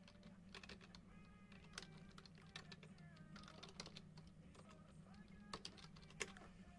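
Faint, irregular light clicks and taps at close range, with faint background music underneath.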